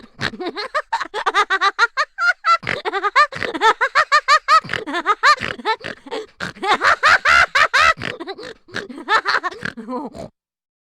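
Cartoon vocal sound effect: a fast, high-pitched chatter of short pitched syllables, many a second, stopping shortly before the end.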